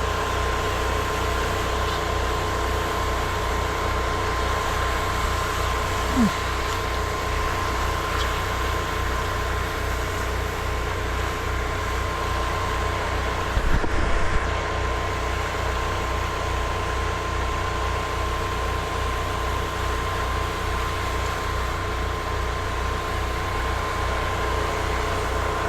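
Small engine of a soft-wash rig's generator and pump running steadily, a constant drone with a pulsing low rumble and a steady hum. A brief rattle about fourteen seconds in.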